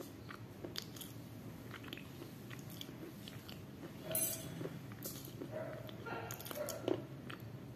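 Close-miked biting and chewing of a dry, crunchy white bar. Scattered small crunches run throughout, with louder bites about four seconds in and again near seven seconds.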